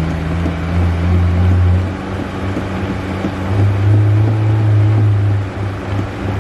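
Car engine running and being revved, its low note swelling twice: briefly around the first second, and for about two seconds from three and a half seconds in.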